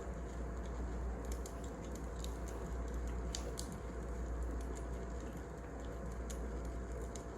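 Crackling wood fire: a steady low rushing bed with irregular small sharp pops and crackles, a few of them clustered a little over a second to three and a half seconds in.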